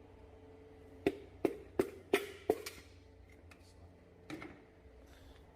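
Five quick knocks, about three a second, then one lighter knock near the end: a piston being tapped down through a ring compressor into the cylinder bore of a Chevy LT1 small-block.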